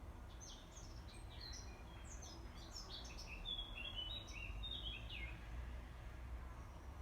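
Bird song: a rapid twittering run of short, falling chirps that stops about five seconds in, over a steady low rumble of background noise.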